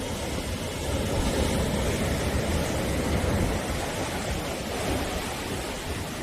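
Sea waves washing onto the shore: a steady surf noise with a deep low rumble, swelling a little about a second in and easing off after.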